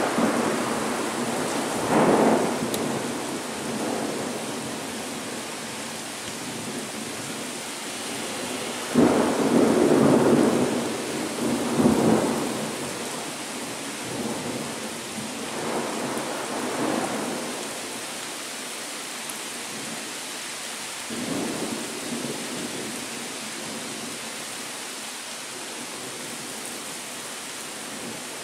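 Thunder rumbling in a series of swells over steady rain, the loudest and longest rolls coming about a third of the way in.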